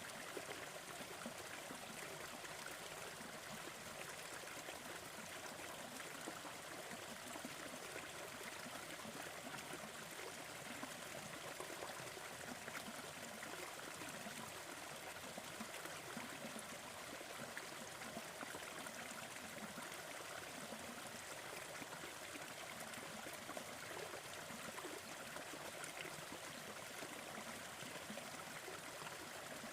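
Wood fire crackling with faint, irregular pops over a steady, even hiss of brown noise.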